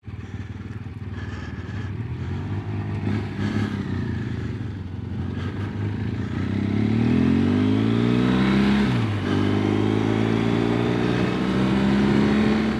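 Motorcycle engine pulling away from a stop and accelerating: low and uneven at first, then rising steadily in pitch from about six seconds in, dropping at a gear change near nine seconds, and climbing again.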